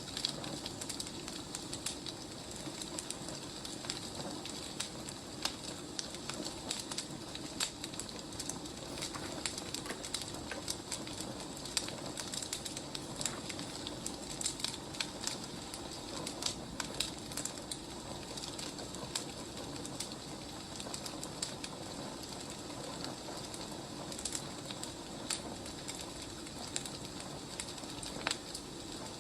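Wood fire crackling: irregular sharp snaps and pops over a steady low hiss of burning logs.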